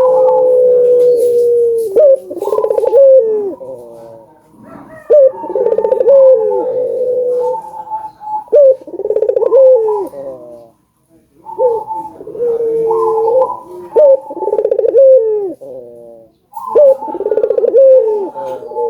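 Ringneck dove (burung puter) cooing in repeated phrases, about seven in a row, each a low rolling coo with short gaps between them and a brief pause a little past the middle.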